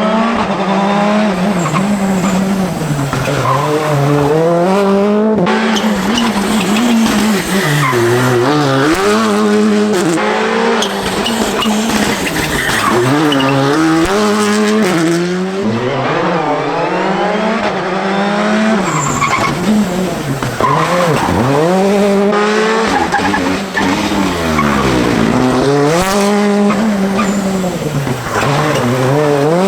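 Rally cars driven hard on a stage, one after another. The engines rev up through the gears and drop back sharply when lifting and braking for corners, over and over.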